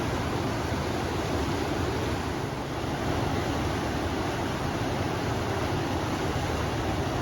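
River water rushing steadily with wind blowing over it, a continuous noise heaviest in the low range that eases slightly about two and a half seconds in.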